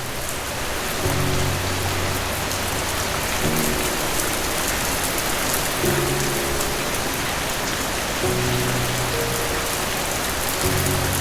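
Steady, dense rainfall, with soft low music chords underneath that change about every two and a half seconds.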